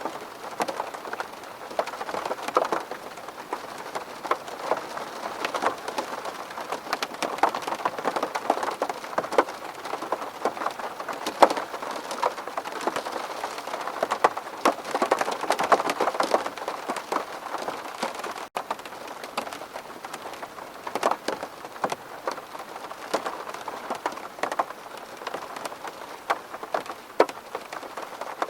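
Steady rain falling on a window pane, with many separate drops hitting sharply against a constant wash.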